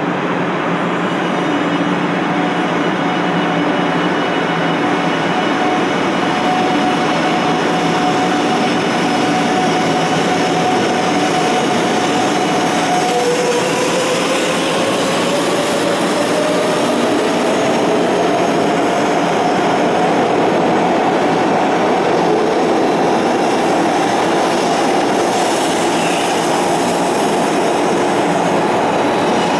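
500 Series Shinkansen pulling out of a station: steady running noise and a held whine, then about halfway through a new whine starts low and climbs steadily as the train gathers speed past the platform.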